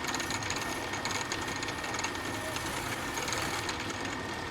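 A machine running steadily, a dense noise with a faint high steady whine over it.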